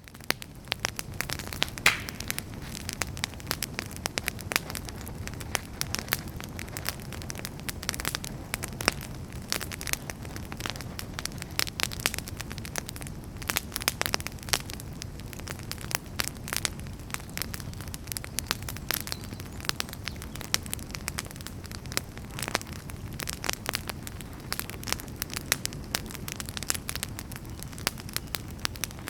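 Wood fire burning in a fireplace, crackling: frequent sharp pops and snaps, a few louder ones, over a steady low rumble of the flames.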